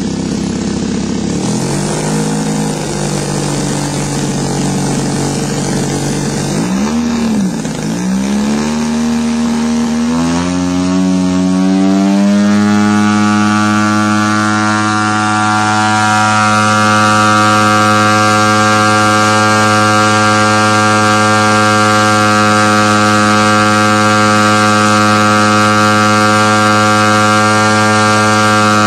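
RC airplane engine running on the ground during needle tuning, its high-speed needle just turned a half turn. The pitch sags and recovers about seven seconds in, then climbs over several seconds to a high speed and holds steady there.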